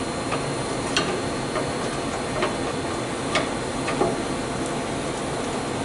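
A few light metallic clicks as a steel exhaust pipe is twisted in its clamps, over a steady hiss.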